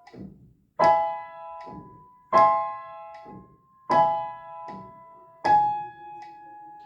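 Piano, right hand alone, playing a slow legato melody in A minor: four main notes struck about a second and a half apart, each left to ring into the next, with softer notes in between.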